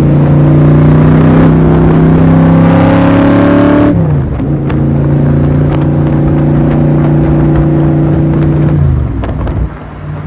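Roush 427SR V8 in a Superformance MKIII Cobra, heard through its side pipes: the engine accelerates with its pitch climbing, drops sharply at a gear change about four seconds in, pulls steadily in the next gear, then falls away as the throttle is lifted near the end.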